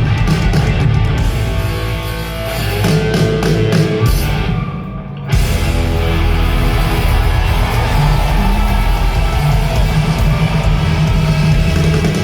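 Live rock band playing loud, with distorted electric guitar and drum kit. About four seconds in the sound thins out for a moment, then the full band comes back in suddenly at full volume.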